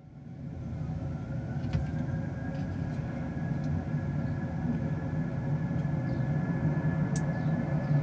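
Jet aircraft engines rumbling low and steadily, with a faint steady whine above; the sound fades in over the first second.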